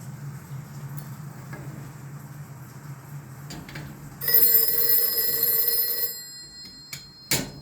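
Telephone bell ringing once, a loud ring of about two seconds starting about four seconds in, over a steady low hum. A sharp clunk follows near the end.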